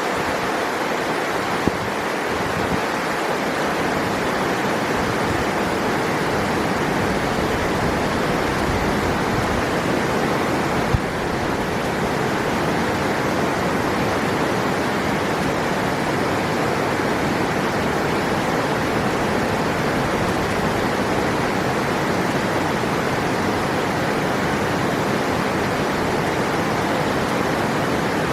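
River water rushing steadily, a continuous even roar of flowing water.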